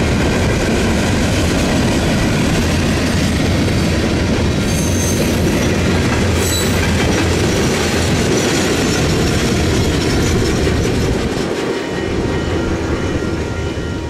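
Freight train of covered hopper cars rolling past close by, steel wheels running loud and steady over the rails, dying down near the end as the last cars pass.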